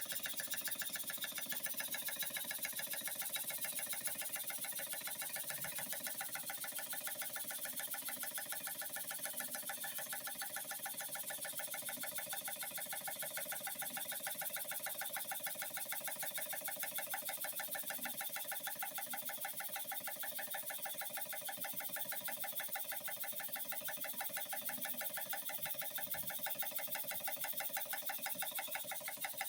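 Stuart horizontal model steam engine running steadily, with a fast, even beat from its strokes.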